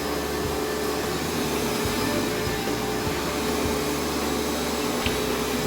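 Carpet-washing vacuum running at full speed with a steady motor whine and rush of suction, drawing excess water back out of freshly washed, wet carpet with its clean-water tank empty.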